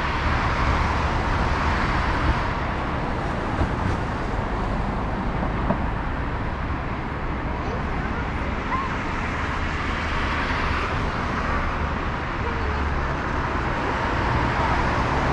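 Steady city traffic and road noise with a constant low rumble, heard from a moving bicycle.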